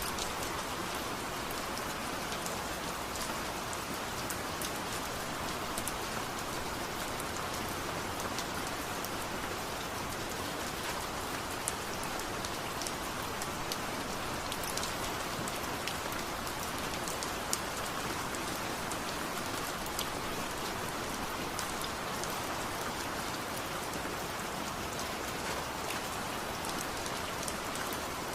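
Steady rain with individual drops ticking and pattering on a surface.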